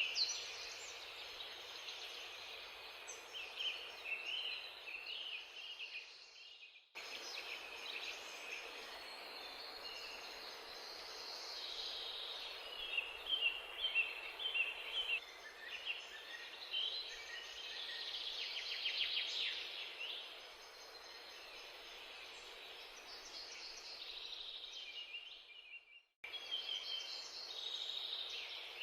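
Steady background hiss with many small bird chirps over it, broken by two sudden cut-offs.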